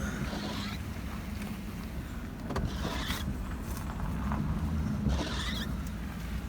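Pickup truck engine running slowly in reverse, heard from inside the cab as a steady low hum, with a few brief noises about two and a half, three and five seconds in.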